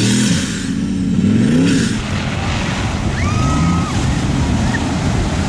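Mud truck engine revving, its pitch climbing in repeated surges over the first two seconds, then running on more steadily.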